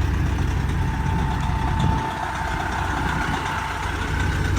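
Semi-truck engine running, heard from inside the cab as a steady low rumble that eases off about two seconds in.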